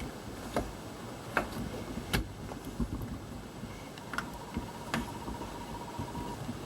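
Scattered light clicks and knocks of a hose and wiring being handled and repositioned in a car's engine bay, with a faint steady tone for about two seconds past the middle.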